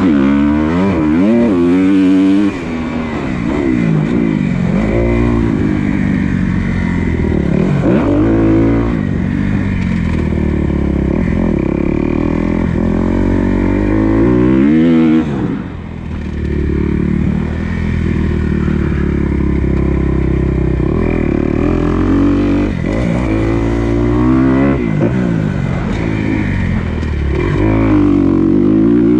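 Motocross dirt bike engine revving up and down again and again as it is ridden, pitch climbing through the gears and falling off, with the throttle shut briefly about two seconds in and again about halfway through.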